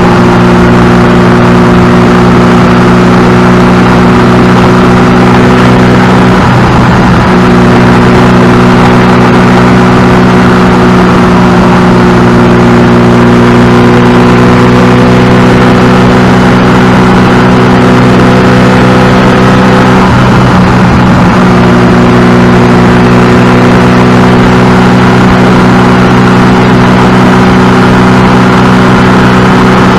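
Ferrari 308 GTSi Quattrovalvole's mid-mounted V8 running under way at a steady pitch, heard close up from atop the engine cover. The note briefly breaks twice, about seven and twenty-one seconds in.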